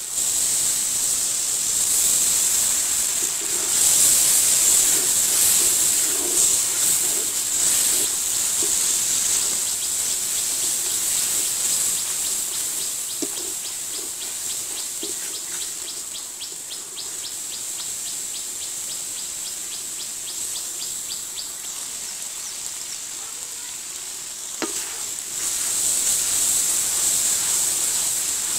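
Onion and spice masala sizzling as it fries in oil in a large metal kadai, with a wooden spatula stirring it. The sizzle is louder for several seconds near the start and again near the end.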